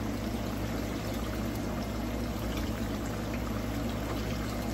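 Ripe plantain slices frying in hot oil in a skillet, a steady sizzle, over a low steady hum.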